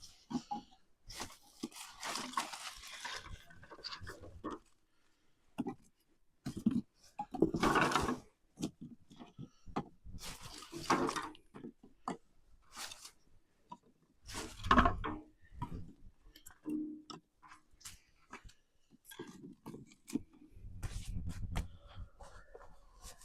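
Irregular rustling, scraping and short knocks of things being handled, with a couple of heavier thumps about two-thirds of the way through and near the end.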